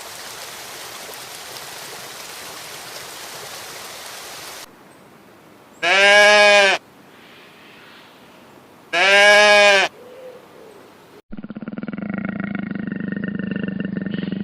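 Two loud, identical bleats from a sheep or goat, each about a second long and three seconds apart, after a few seconds of steady hiss. Near the end a different, lower animal call begins and carries on.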